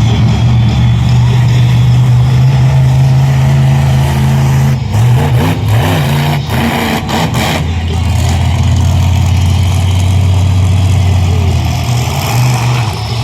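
Monster truck engine running loud and steady, its pitch wavering and shifting as the throttle changes in the middle. A run of sharp bangs falls between about five and eight seconds in.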